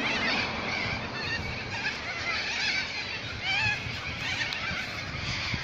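Many birds calling at once: a chorus of short, overlapping chirps and whistles over a steady hiss.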